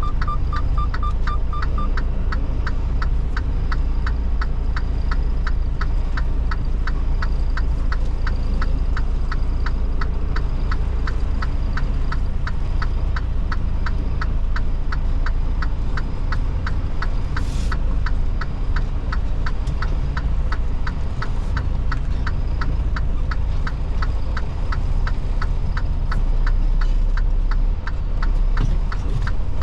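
Semi truck's diesel engine and cab rumbling steadily while driving, with a regular ticking about two to three times a second throughout. A short hiss comes about seventeen seconds in.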